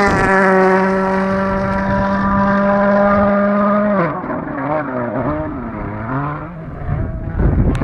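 Volkswagen Polo R WRC rally car's 1.6-litre turbocharged four-cylinder engine at full throttle as the car goes by, its pitch dropping at the start and then held steady. About four seconds in it lifts off, and the revs rise and fall unevenly, a little quieter.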